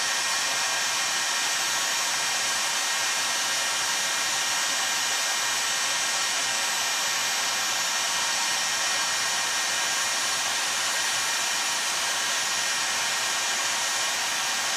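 Electric heat gun blowing steadily on a raised temperature setting, heating a chainsaw crankcase half so it expands enough to slip over the crankshaft.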